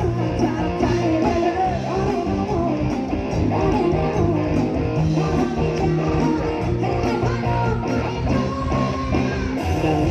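Live band playing an instrumental break between sung verses: a melodic guitar lead over a stepping bass line and steady drums.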